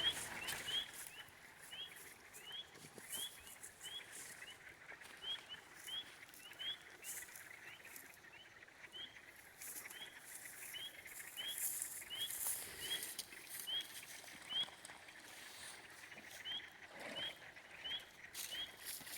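A small animal calling: short rising chirps repeated steadily, about two a second, with scattered faint clicks in the background.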